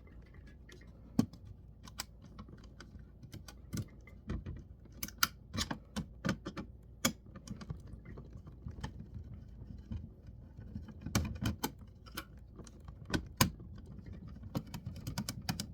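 Irregular small clicks and taps of plastic and metal laptop parts being handled and worked loose during disassembly, with a few louder clusters of knocks in the second half.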